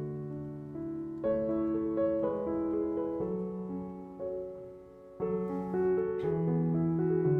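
Soft background piano music: slow, held chords, with new chords struck about a second in and again about five seconds in, and a brief faint hiss just after the second.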